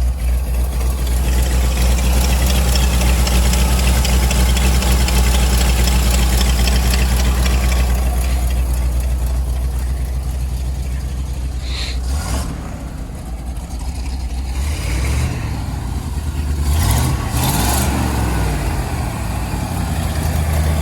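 Ford 370 V8 of a 1984 Ford flatbed truck idling steadily on its freshly rebuilt carburetor, then, a little past halfway, revved up and let back down a couple of times.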